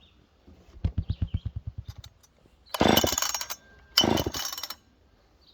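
Poulan 306A two-stroke chainsaw being pull-started: the starter cord is yanked three times, the first pull turning the engine over in a quick run of compression pulses that fade out, then two short rasping pulls, without the engine catching and running.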